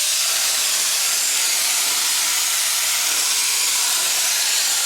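Paint spray gun spraying black paint for the frame, a continuous hiss.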